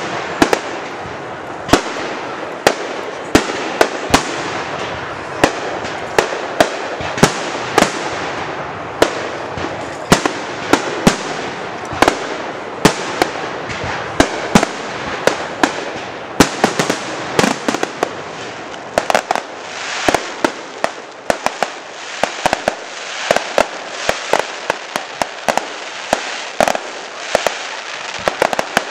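Fireworks display going off: a long run of sharp bangs and cracks, one or two a second and coming thicker in the second half, over a continuous crackling hiss.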